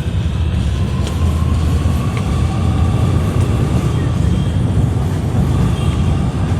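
Shanghai Metro subway train running, a loud steady rumble with a faint whine that rises slightly during the first few seconds.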